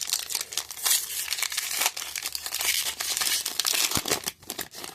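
Plastic trading-card pack wrapper crinkling and tearing as it is ripped open and handled, a dense run of crackles that eases off near the end.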